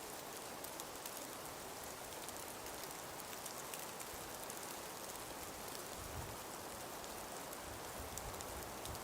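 Calm winter breeze in a forest: a steady soft hiss with fine crackling ticks throughout. Low rumbling gusts of wind hit the microphone from about six seconds in.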